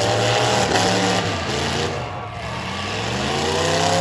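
Stock pickup truck engine running; its note falls away about halfway through, then climbs back up as it revs again.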